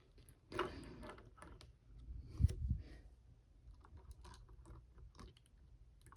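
Faint scattered clicks and taps of small plastic action-figure parts being handled, with a soft knock about two and a half seconds in.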